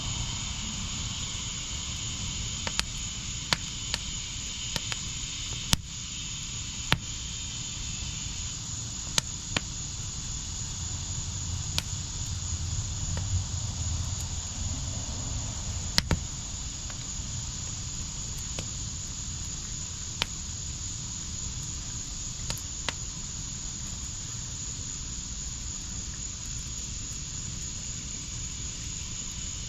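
Backyard fire pit burning with a steady low rush and sharp crackling pops that come irregularly, every second or few. Insects trill in a steady high band behind the fire.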